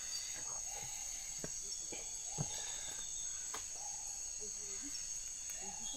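Steady, high-pitched chorus of crickets and other insects in the rainforest at dusk, with a few sharp clicks, the loudest about two and a half seconds in.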